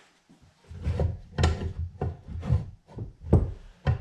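Drill press table assembly being swung side to side around its steel column: metal scraping and rubbing, with several sharp knocks as it shifts and clunks against the column.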